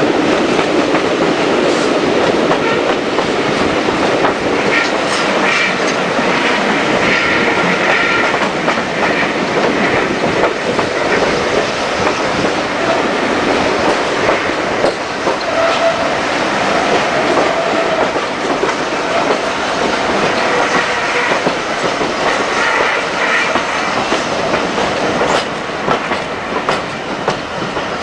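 Passenger train carriages running over the track, heard close from an open carriage window: a steady rumble with wheels clicking over rail joints and a few brief squeals of wheels on rail.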